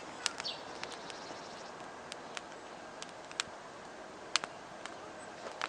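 Wood campfire crackling: scattered sharp pops over a faint steady hiss.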